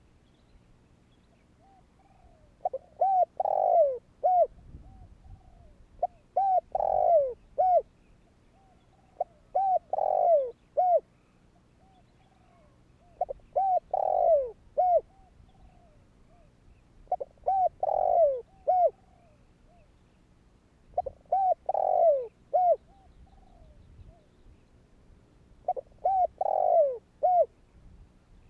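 Spotted dove cooing its song, repeated about every four seconds. Each phrase is a few short coos leading into a louder drawn-out coo that falls in pitch, ending on one short coo.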